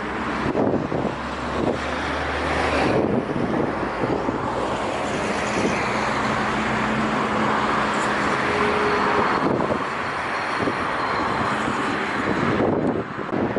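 Wind noise on the microphone over a steady low engine hum from a Volgo-Don type river cargo motor ship.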